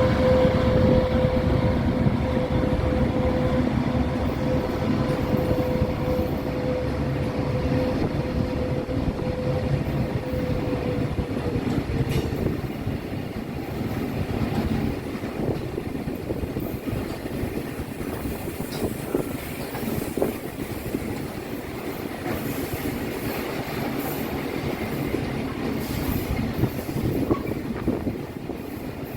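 Train running past on the tracks: a dense rumble of wheels on rails with rapid clatter, slowly fading. A steady tone accompanies it for about the first twelve seconds, then dips slightly in pitch and stops.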